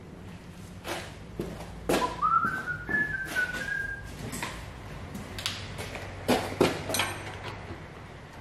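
A person whistling a short run of notes, rising in pitch over about two seconds, amid scattered knocks and clicks of hardware being handled on a workbench.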